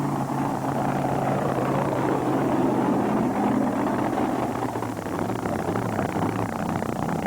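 Mini modified pulling tractor's engine running steadily at high power.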